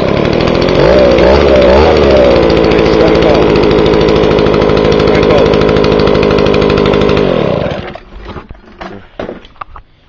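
Echo two-stroke leaf blower engine running just after a cold start on choke, catching on the first pull. Its pitch wobbles up and down about one to two seconds in, it then runs steadily, and it is shut off about seven and a half seconds in.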